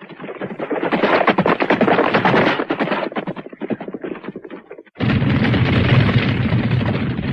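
Cartoon gunfire: rapid machine-gun-like shots that thin out over the first four seconds or so. About five seconds in, a sudden cut brings in a steady low rumbling noise.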